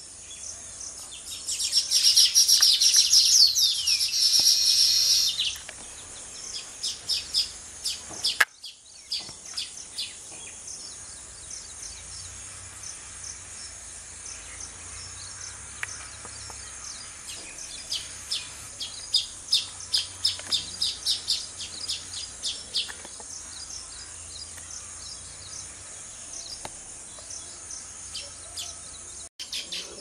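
Baya weavers calling: a loud burst of rapid, high chattering song with a falling note in it, then runs of short sharp chirps, over a steady high insect hiss.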